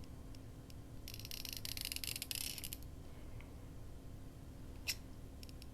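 Scissors cutting through fabric: a run of rapid fine snips lasting about two seconds, then a single short click near the end.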